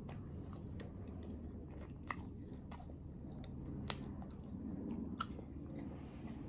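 A person chewing a mouthful of steamed momo dumpling dipped in achar, close to the microphone, with a few sharp mouth clicks scattered through the chewing.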